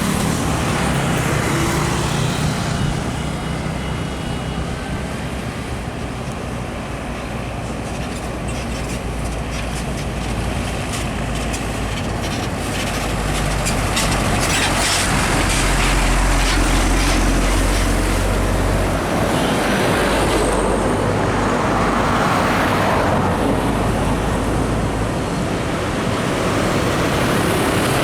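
Road traffic with heavy trucks going by: diesel engines drone low and tyres hiss on the road. It swells as vehicles pass, loudest about halfway through and again a little later.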